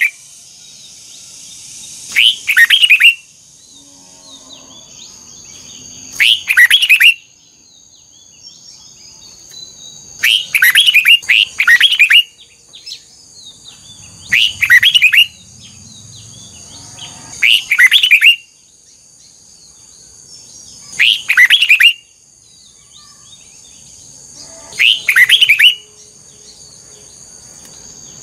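Red-whiskered bulbul singing: short, loud, fast-warbled song phrases of about a second each, repeated every three to four seconds, with a quick double phrase near the middle.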